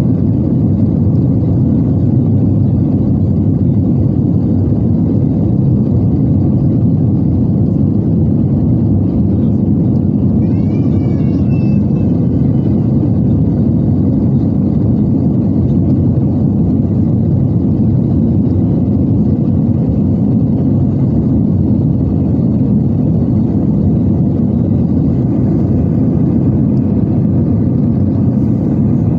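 Steady cabin drone of an Airbus A320-214 in flight on approach: the low rush of airflow and the hum of its CFM56 engines, heard from inside the passenger cabin. About ten seconds in, a brief wavering high-pitched sound rises over the drone.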